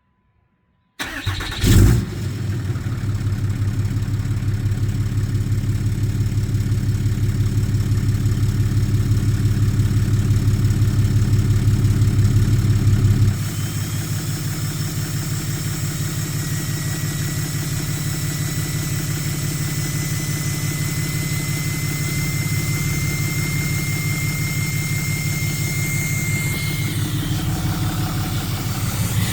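6.7 Cummins diesel engine cranking and catching with a loud burst about two seconds in, then idling with an even, rhythmic exhaust pulse through a 4-inch MBRP exhaust with muffler. About thirteen seconds in the idle steps down to a lower, quieter level, and later a faint high whine rises slowly.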